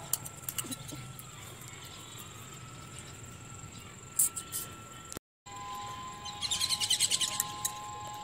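Birds chirping, with a quick run of rapid high chirps a little before the end, over faint steady high tones.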